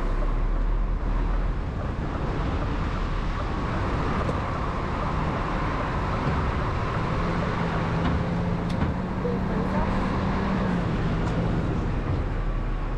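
Heavy vehicle engine running steadily, with a low steady hum that strengthens from about seven seconds in and fades out around eleven seconds.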